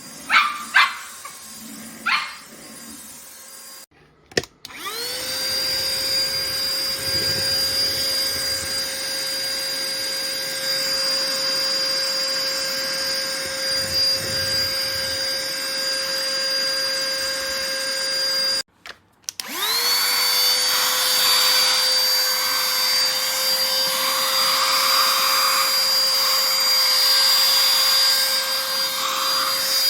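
Three short, sharp sounds, then a cordless stick vacuum cleaner's motor spins up with a rising whine and runs on a steady high whine with airflow noise. Near the middle it is switched off, then spins up again at once and keeps running.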